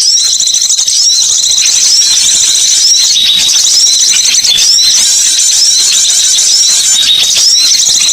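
Dense, continuous chorus of many high-pitched bird chirps and short hooked call notes overlapping one another, a bird-lure recording of songbirds.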